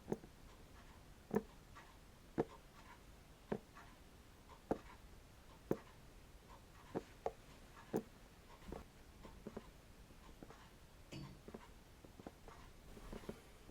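Fingers tapping on a pineapple's rind: sharp single taps about once a second, giving way in the second half to lighter, quicker clicks and scratching.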